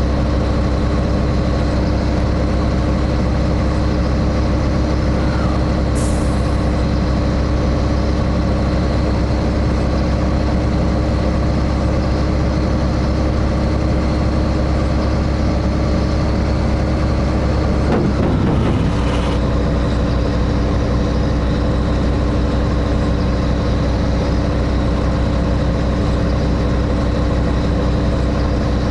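Scania 113H truck's 11-litre six-cylinder diesel engine running steadily. There is a short hiss of air about six seconds in, and the engine pitch dips and recovers about eighteen seconds in.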